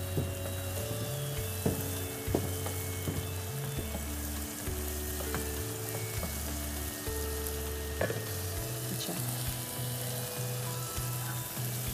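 Magur catfish pieces and onion masala sizzling steadily in a frying pan, with a few sharp clinks of a spoon against the pan as the fish is lifted out. Soft background music with a slow bass line plays underneath.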